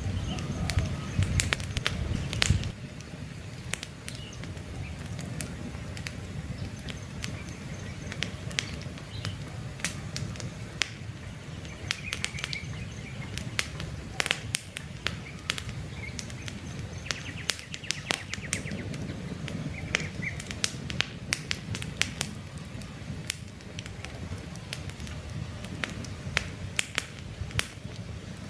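Wood campfire crackling, with frequent sharp pops and snaps over a low rumble of burning. The rumble is louder for the first two seconds or so, then drops. Birds chirp faintly now and then in the background.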